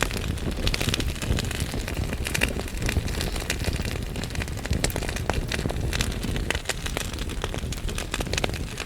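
Wood fire burning in a fireplace: logs crackling and popping many times a second over a steady low rumble of the flames.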